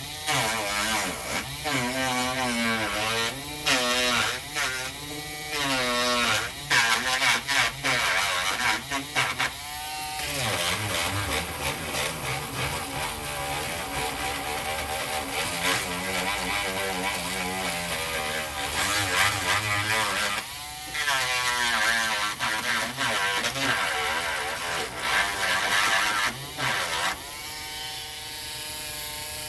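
Dremel rotary tool running and grinding out a crack in a model boat's stern, its pitch dropping and rising again and again as the bit bites into the old epoxy. Near the end it runs at a steady pitch.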